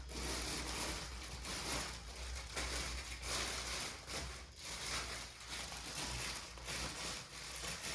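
Rustling and crinkling of packaging being handled, in uneven waves with no pitched sound.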